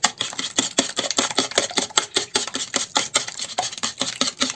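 Wire whisk beating eggs with sugar and salt in a bowl: quick, rhythmic clicks of the whisk against the bowl, several strokes a second.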